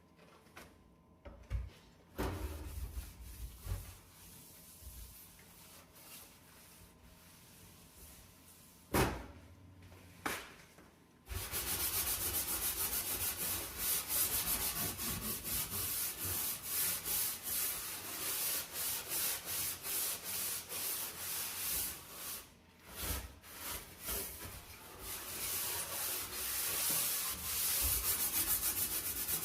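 A few knocks of handling, then from about a third of the way in a brush scrubbing hard at a dirty stove or oven surface in rapid back-and-forth strokes, pausing briefly near the two-thirds mark.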